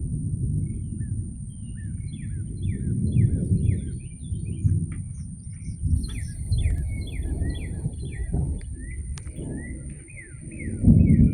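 Birds chirping outdoors in many short, quick, downward-sliding notes over a loud, uneven low rumble that swells and fades and surges again near the end. A thin, steady high-pitched whine runs underneath.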